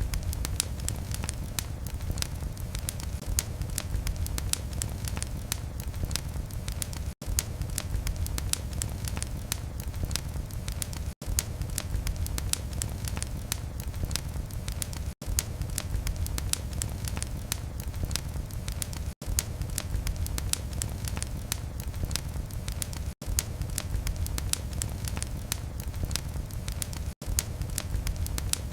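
Fire burning in a fireplace, with a steady low rumble of flame and a dense run of small wood crackles and pops. The sound drops out for an instant about every four seconds.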